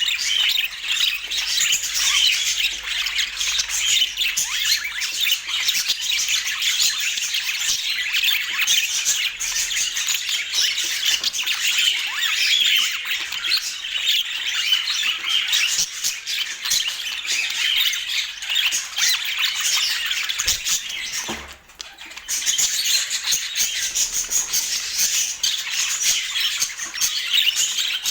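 Budgerigars chattering and chirping together in a dense, continuous twitter of quick, high squawks and warbles, with a brief lull about three-quarters of the way through.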